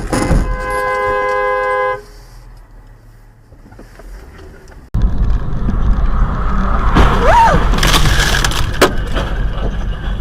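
A car horn blares steadily and stops about two seconds in. After a sudden cut, loud car and road noise follows, with a sharp knock near the end.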